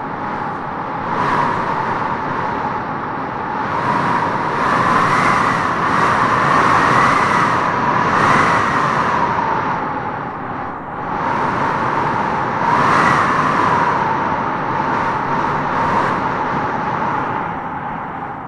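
Wind blowing in gusts, with a hollow, whistling howl that rises and falls in pitch and swells loudest about five to eight seconds in and again about thirteen seconds in.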